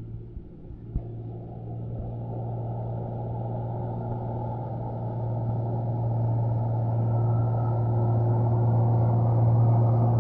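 Heavy truck's diesel engine running under load on a steep climb, its low drone growing steadily louder as it approaches. Two short knocks sound in the first second.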